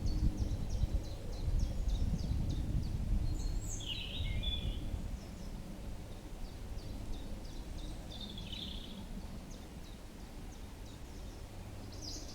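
Small birds singing in a thicket: a rapid series of short, high notes, about four or five a second, with a couple of fuller calls about four and eight seconds in, over a steady low rumble.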